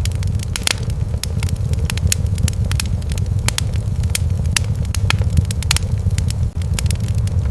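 Wood fire crackling in a fireplace: a steady low rumble of flames with many sharp, irregular pops and snaps.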